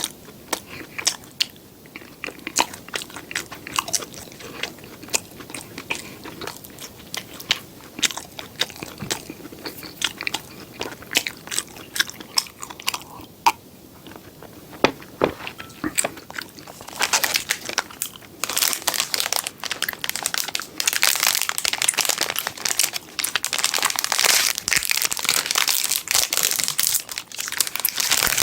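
Close-miked eating sounds: chewing and biting with scattered small clicks. From a little past halfway, a long, dense run of loud, crisp crunching takes over.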